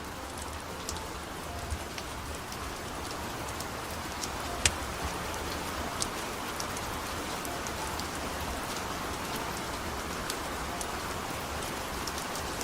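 Steady rain falling, mixed with the scattered sharp crackles and pops of a wood fire burning; the loudest pop comes about four and a half seconds in.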